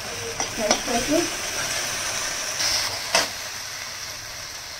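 Spices and ginger-chilli paste sizzling in hot oil in a kadhai, with a steady hiss, while a metal spatula stirs and scrapes them. The spatula clicks against the pan a few times, most sharply a little after three seconds in.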